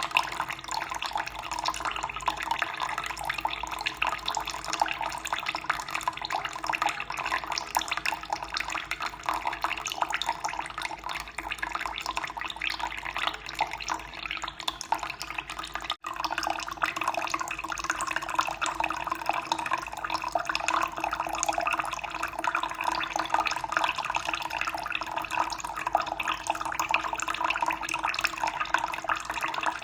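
Running water splashing and trickling steadily, with a brief break in the sound about halfway through.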